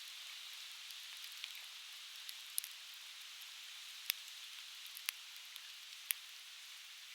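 Conifer firewood crackling in an open fire: scattered small ticks and four sharp pops, spaced about a second apart from the middle on, over a steady hiss.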